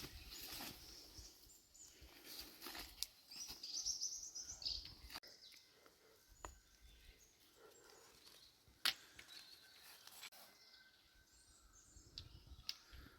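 Faint outdoor ambience with small birds chirping, a busier run of high chirps a few seconds in, and a few scattered sharp clicks.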